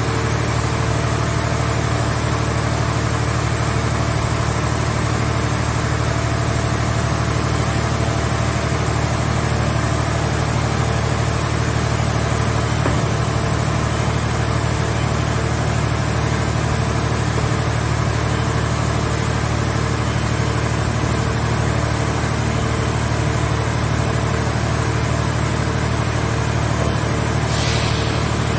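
Engine of a mobile car-body baler running steadily at constant speed, with a brief faint hiss near the end.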